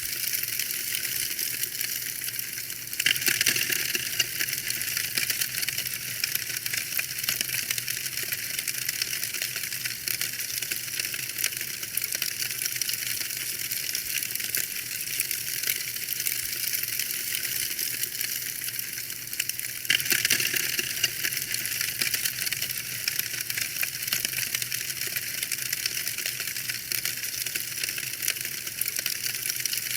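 Wood fire crackling and popping in a fireplace: a dense, continuous run of small sharp crackles over a soft low rumble. It swells louder about three seconds in and again about two-thirds of the way through.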